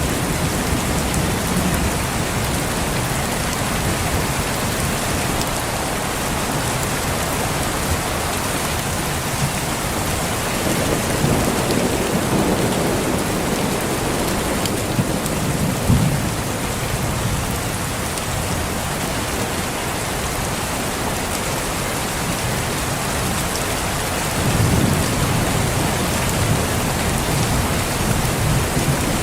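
Steady rain falling, with low rolls of thunder that swell and fade a third of the way in, around the middle, and near the end.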